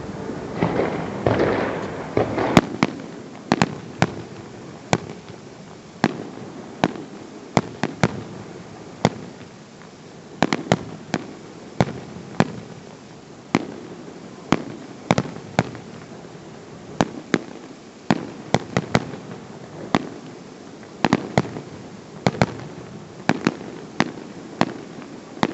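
Sharp, irregular cracks and knocks, roughly one or two a second, typical of hands and feet striking walls, rails and the ground during parkour training.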